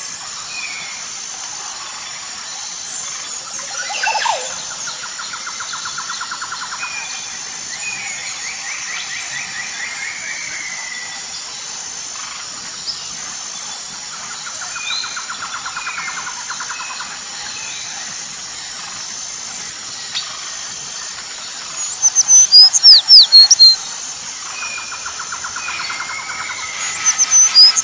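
Wild birds calling outdoors: short chirps and a trilled phrase repeated several times over a steady high hiss. Two loud bouts of sharp, quickly falling calls come about 22 seconds in and again near the end.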